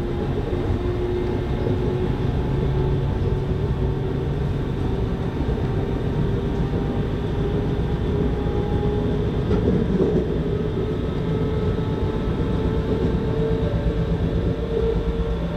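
Electric regional train running along the track, heard from on board: a steady rumble of wheels on rails with a motor whine that climbs slowly in pitch as the train picks up speed.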